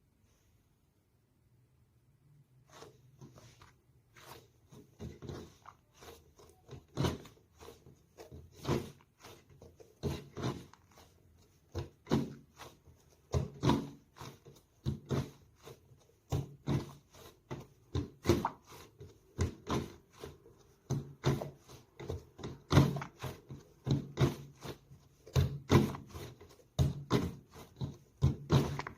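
Soft squishy toys being squeezed and poked by hand, making irregular short sticky clicks and squishes, about one or two a second, starting about two and a half seconds in.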